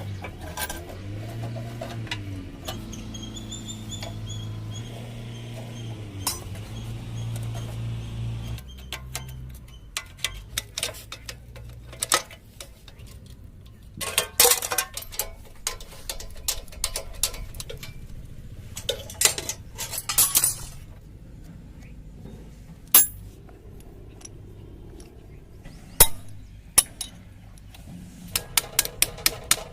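Metal tools and parts clinking and clanking, as in hand work on a moped's metal parts. A low steady hum runs under the first eight seconds or so. Near the end comes a run of quick, evenly spaced taps.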